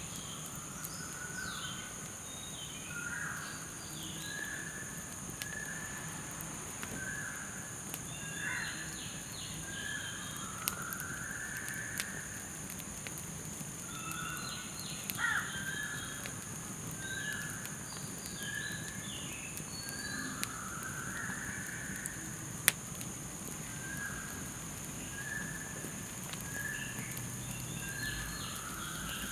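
Campfire of garden waste crackling, with a few sharp pops, over a steady high-pitched drone of night insects. Bouts of short, repeated animal calls come every several seconds.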